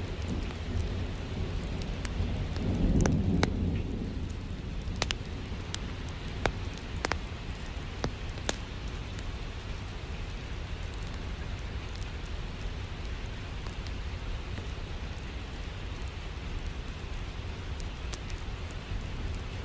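Steady rain, with a low roll of thunder swelling about three seconds in. Scattered sharp crackles from a log fire pop over the rain, mostly in the first half.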